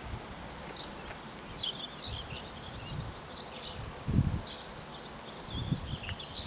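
Small birds chirping and twittering over and over, with a few low gusts of wind buffeting the microphone, the strongest about four seconds in.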